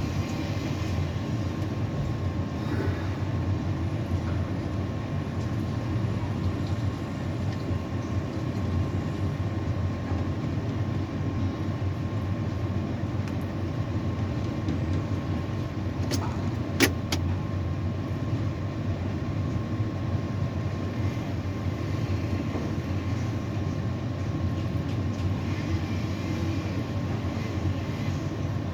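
Tower crane machinery humming steadily: a low rumble with a faint constant high tone, and two sharp clicks a little past halfway.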